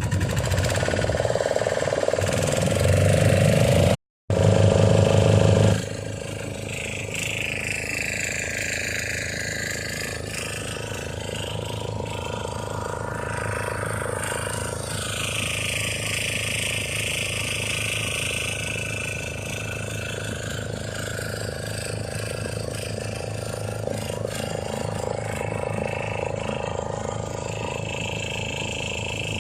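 Motorboat engine running steadily under way. It is louder for the first few seconds, cuts out for a moment about four seconds in, then runs on more evenly and a little quieter.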